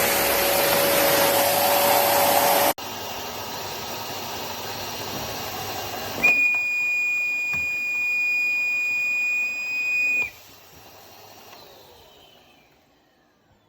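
Rowenta RO3950 bagged vacuum cleaner running loudly, cut off abruptly about three seconds in. It then runs more quietly, with a steady high whistle added from about six to ten seconds in. It is then switched off, and the motor winds down to silence.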